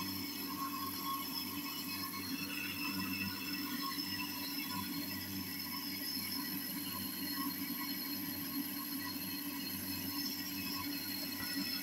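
Homemade grain crusher driven by an electric motor taken from a water pump station, running with a steady hum.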